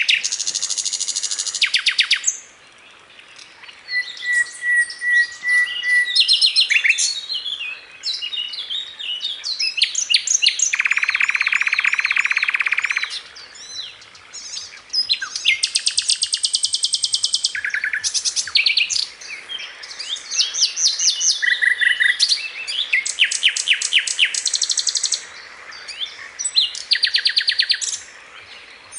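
Sikatan londo flycatcher singing continuously, a varied run of fast trills, chattering phrases, a buzzy rasping phrase and a few held whistled notes, separated by brief pauses.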